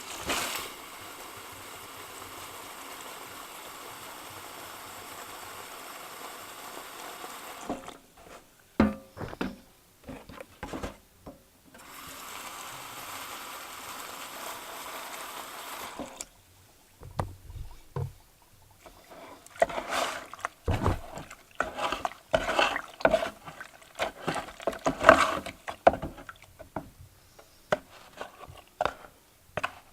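Water running in a steady stream for about eight seconds, stopping, then running again for about four seconds. It is followed by scattered knocks and light clatter of handling.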